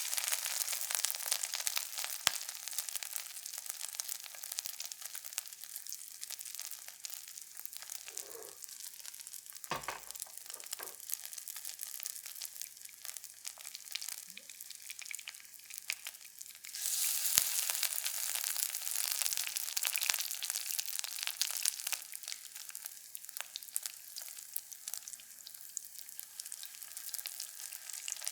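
Food frying in a pan, a steady crackling sizzle with scattered pops, growing louder about two-thirds of the way through.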